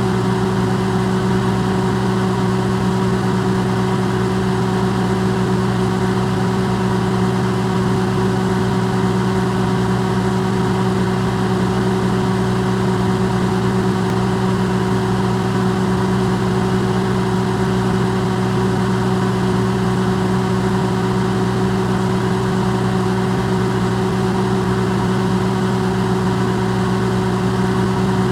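Electrolux microwave oven running, recorded close up and amplified: a steady, unchanging low hum with a faint hiss.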